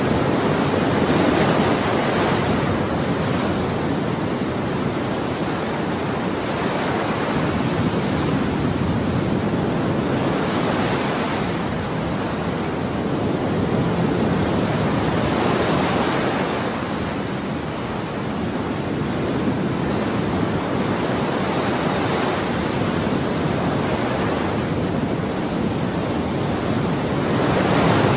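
Ocean waves breaking and washing on a shore: a continuous hiss of surf, with a fresh wave cresting every few seconds.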